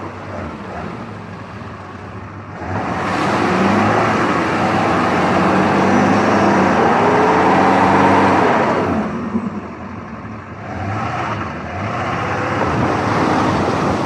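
Truck engine revving as it drives through mud, its pitch rising and falling. It gets much louder about two and a half seconds in, eases off around nine seconds, then revs up again near the end.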